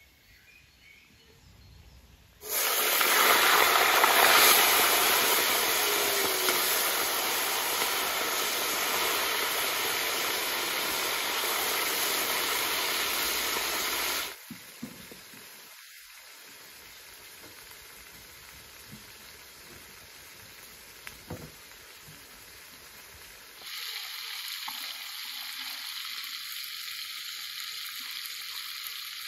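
Chicken pieces frying in oil in a large cauldron: a loud, steady sizzling hiss that starts suddenly a couple of seconds in and cuts off abruptly about halfway through, leaving a quieter stretch with a few faint clicks. A softer sizzle returns for the last few seconds.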